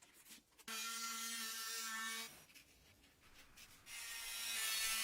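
A small electric motor or power tool runs steadily for about a second and a half, with a steady hum, then cuts off abruptly. Near the end a hissing, rubbing noise rises, with the hum back underneath.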